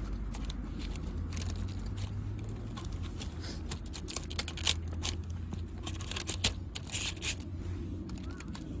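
Close handling noises: irregular scraping and rustling with scattered sharp clicks, busiest in the second half, over a steady low rumble.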